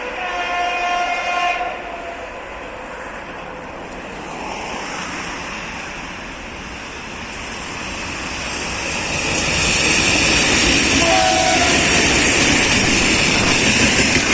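Electric train sounding its horn in one tone held for under two seconds, then a short toot about eleven seconds in. From about eight seconds a train's running noise and wheel clatter grow louder as it approaches and stays loud as it goes by.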